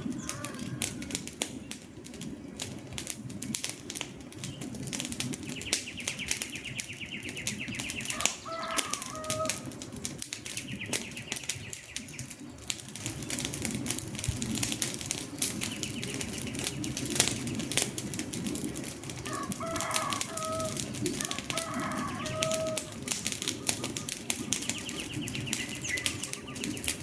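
Wood fire crackling, with constant sharp pops and snaps over a low rumble of flames. Birds call now and then with short pitched notes, and a high, rapid trill comes and goes four times, a few seconds each.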